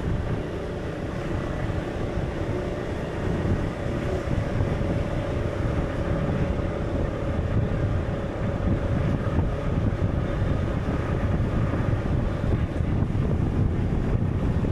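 Steady low rumbling wind noise, with a faint held tone that fades out about twelve seconds in.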